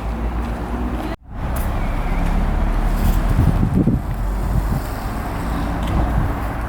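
Steady low rumble of an electric train at the platform, cut off briefly about a second in before it resumes.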